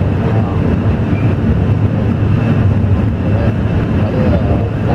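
Alishan Forest Railway narrow-gauge train running, a steady low rumble.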